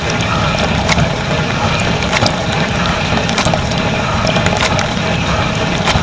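Dishwasher running a wash cycle, heard from inside the tub: the circulation pump hums low while water sprays, with a sharp click or knock about once every second and a bit.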